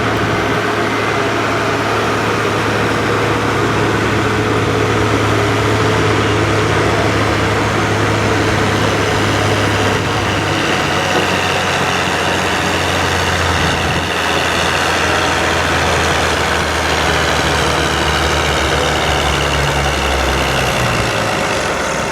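Allis-Chalmers 190XT tractor engine running hard under load while pulling the weight sled. The engine note holds steady, then drops a little in pitch about halfway through and shifts again near the end.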